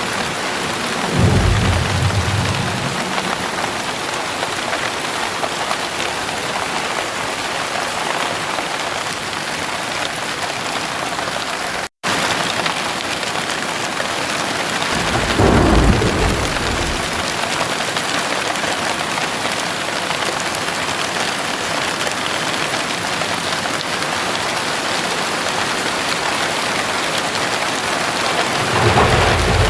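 Heavy rain falling steadily, with thunder rumbling low three times: about a second in, around the middle, and again near the end. The sound cuts out for an instant a little before the middle.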